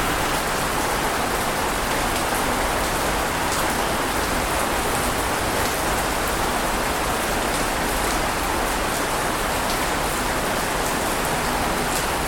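Steady, even rushing water noise with faint scattered ticks in the highs; it holds level throughout, with no rise and fall of separate waves breaking.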